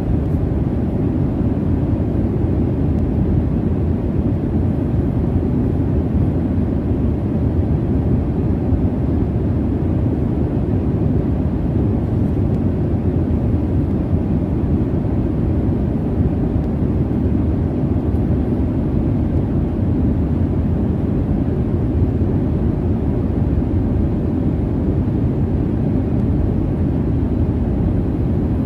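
Jet airliner cabin noise: a steady, low, even rumble of engine and airflow noise, unchanging throughout.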